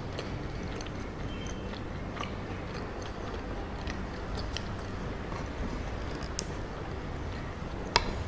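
Close-miked chewing of soft chocolate cacao mochi, with scattered small wet mouth clicks and one sharper click near the end.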